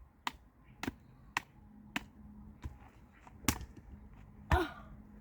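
A series of sharp, short knocks, about one every half second, with the loudest about three and a half seconds in.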